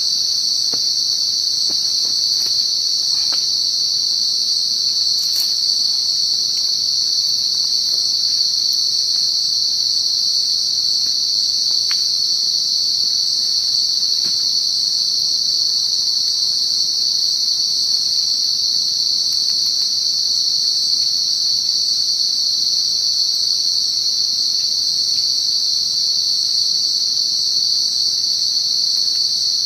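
A dense chorus of insects at dusk: one steady, high-pitched chirring that never lets up, with a few faint ticks in the first seconds.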